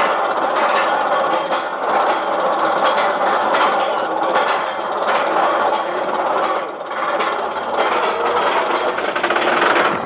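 Magnum XL-200 roller coaster train rattling and clattering on its steel track, heard from a rider's seat as a loud, continuous mechanical clatter full of irregular clicks.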